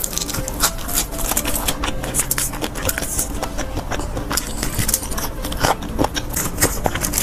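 Close-miked biting and chewing of crispy deep-fried skewered food (chuan'r): a dense, irregular run of crunchy clicks and crackles.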